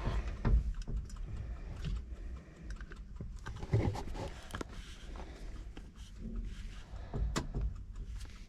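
Scattered clicks, knocks and rustling from hands working inside a car, unplugging and plugging wiring connectors while swapping a FiTech fuel-injection computer. There are sharp clicks about half a second in, near four seconds and near the end.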